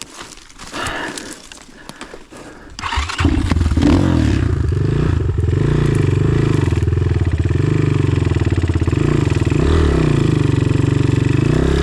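Enduro motorcycle engine starting about three seconds in, after stalling, then running steadily with small throttle blips.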